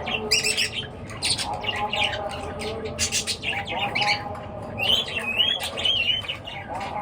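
Several birds chirping and squawking in quick, overlapping calls, with a warbling call about five seconds in.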